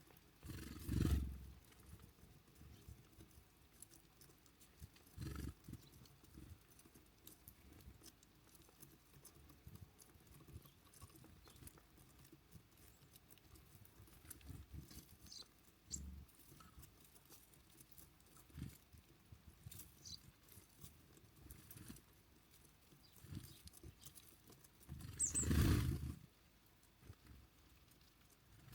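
Faint, short chirps from small birds at a winter feeder, over a quiet outdoor background. Several low rumbling bursts hit the microphone about a second each, the loudest about 25 seconds in.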